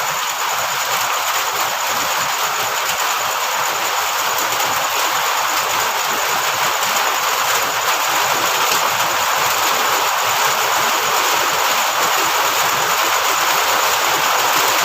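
Heavy rain falling steadily, an even hiss that swells slightly toward the end.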